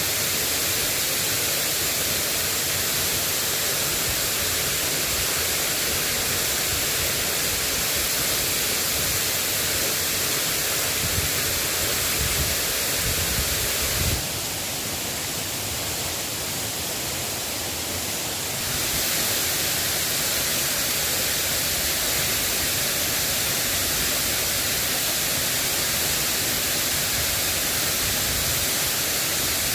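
Steady rain falling, an even hiss. About halfway through it turns a little quieter and duller for about four seconds, then comes back as before.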